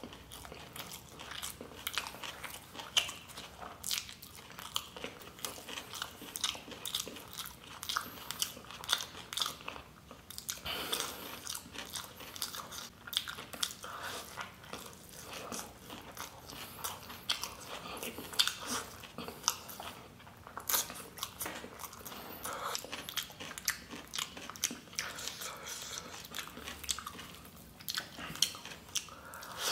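A man chewing mouthfuls of spicy chicken chow mein close to the microphone: wet chewing and lip smacking, with many quick clicks.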